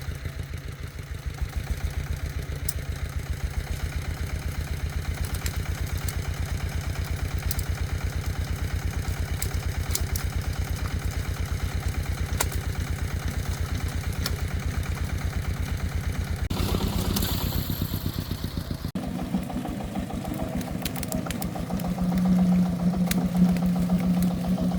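Single-cylinder diesel engine of a công nông farm truck running with a rapid, even chugging. About three-quarters of the way through the sound changes abruptly to a steadier engine hum, louder near the end.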